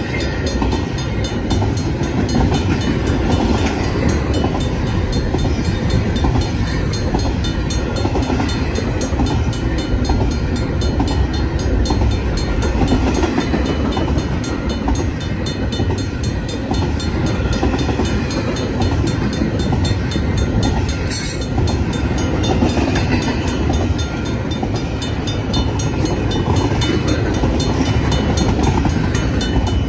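BNSF double-stack intermodal container train rolling steadily past: a continuous rumble of steel wheels on the rails, with a regular clatter as the well cars' wheel sets pass.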